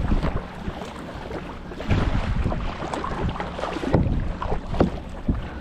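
Kayak paddling: paddle blades dipping and splashing in the water in a few separate strokes, with wind buffeting the microphone.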